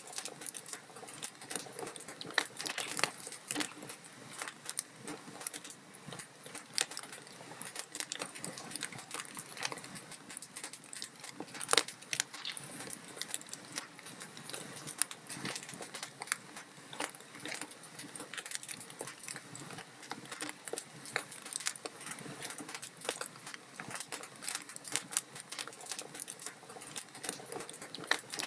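Wood fire crackling steadily, with dense, irregular pops and snaps of burning logs over a soft hiss.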